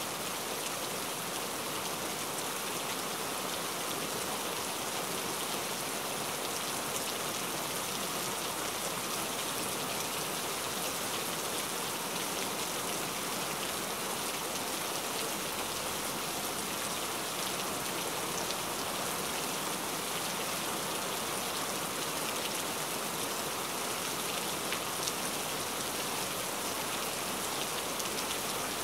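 Steady rain: an even hiss with scattered ticks of individual drops, unchanging throughout.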